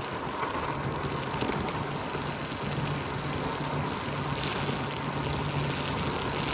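Wind rushing over the microphone while riding a Segway at speed, with a steady low hum underneath from about a second in.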